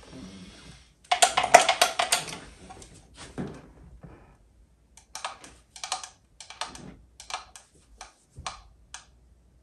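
Rapid clicking and tapping: a dense, loud run of clicks about a second in, then short clusters of clicks every half second to a second.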